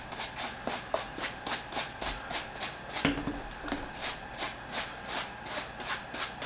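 Horsehair brush swept in quick, even strokes across a sneaker's upper, about three strokes a second, brushing off loose dust and top dirt.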